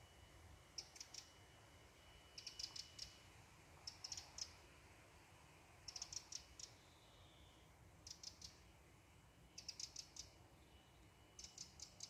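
Small songbirds chirping faintly in the trees: short bursts of three to five quick, high chirps, repeating about every one and a half to two seconds.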